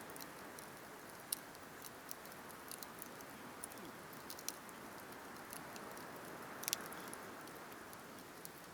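Campfire burning: a steady low hiss with irregular sharp crackles and pops from the burning wood, the loudest pop a little under seven seconds in.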